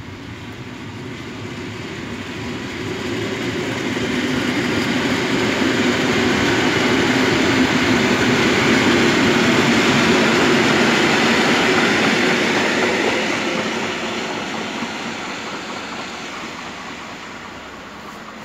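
EN57KM electric multiple unit passing by on the tracks. Its running noise builds to a peak about ten seconds in, then fades as the train moves away.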